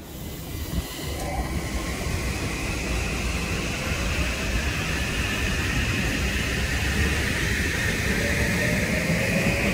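Metro-North M8 electric multiple-unit train running past on the tracks: a steady rumble of wheels on rail with a high whine that slowly rises in pitch, growing a little louder as it goes.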